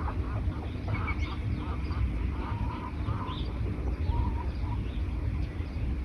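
Several birds calling in short, repeated notes over a steady low rumble.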